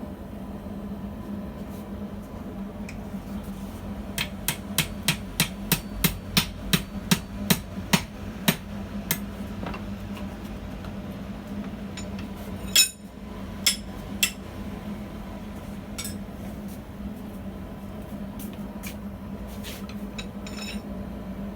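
Blacksmith's hammer striking steel on an anvil: a quick run of about a dozen blows at roughly three a second, then one hard blow and two lighter ones, over a steady low hum.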